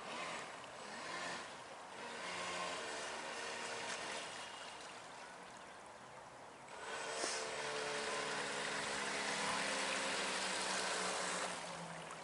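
Electric RC V-hull boat running on the river: a low hum from its motor over a rush of water, in two runs, the second louder, fading near the end.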